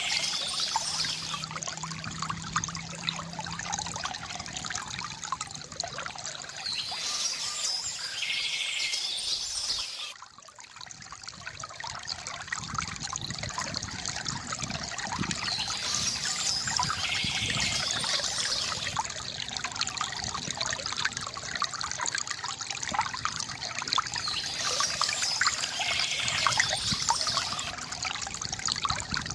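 Water trickling and splashing steadily from a bamboo fountain, with a short lull about ten seconds in. Birds chirp over it in short bursts that come back about every nine seconds.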